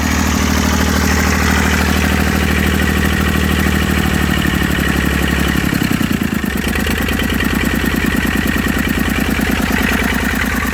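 Massey Ferguson 35's three-cylinder diesel engine running steadily with a fast firing beat, slowing to a lower speed about six seconds in.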